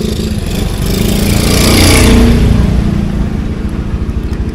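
Honda motorcycle engine running at low road speed, heard close from the rider's seat as the bike pulls away slowly. It swells louder about two seconds in, then settles back.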